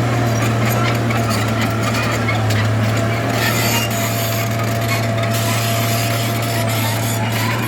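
Bulldozer's diesel engine running steadily with a low drone, over rattling and scraping from its tracks and blade working dirt.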